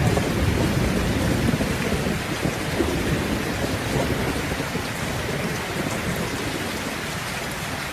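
Steady rain falling, with a low rolling thunder rumble that dies away over the first few seconds.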